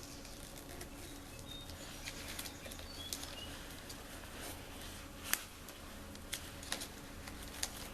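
Light clicks and handling noise of headlight wiring connectors being fitted together by hand. There is a sharper click about five seconds in and a few more near the end.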